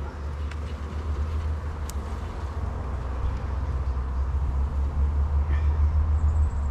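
Steady low rumble that grows slowly louder.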